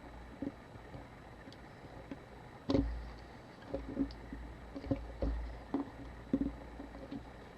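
Handling noise from a camera body being worked on at a bench: irregular light knocks and clicks, about a dozen, coming more often in the second half.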